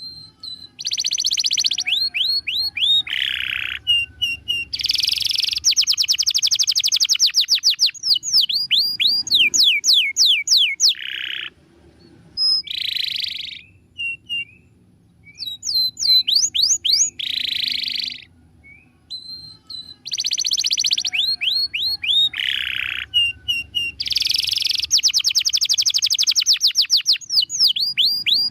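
Domestic canary singing: fast trills of rapidly repeated notes and quick downward-sweeping whistles, alternating with short harsh rasping bursts. The same run of phrases comes round again in the second half.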